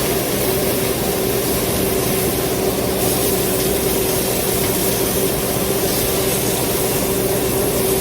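A kitchen fan running steadily: an even rush of air with a constant hum underneath.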